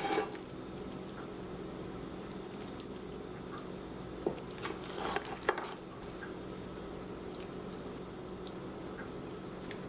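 Chicken in a thickened lemon-orange glaze simmering in a pan as the sauce reduces: steady soft bubbling with a few small pops and clicks around the middle, over a steady low hum.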